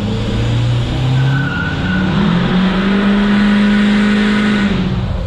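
A 6.6-litre Duramax V8 turbodiesel in a Chevrolet Silverado 3500HD revs up and is held at high revs while the tires spin and squeal in a burnout. The revs drop near the end.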